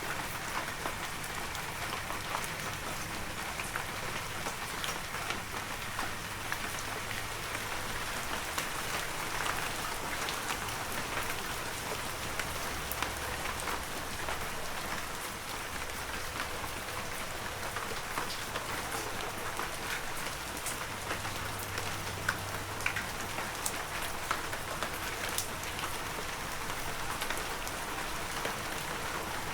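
Heavy rain falling steadily, a dense hiss of rain with many individual drops pattering and ticking on leaves and ground.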